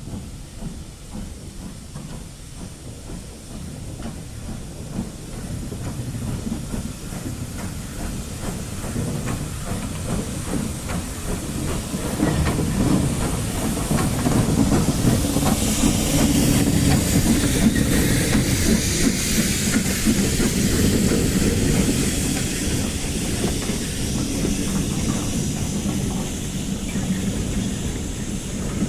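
Steam train drawing close and passing, getting louder to a peak about halfway through, with hissing steam and the clickety-clack of wheels over the rail joints.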